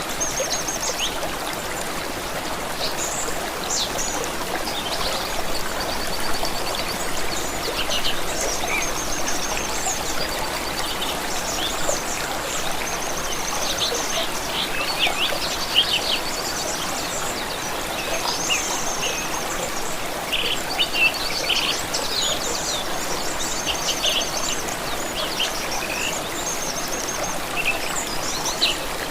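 Running stream water with several songbirds singing and chirping over it, including rapid trills.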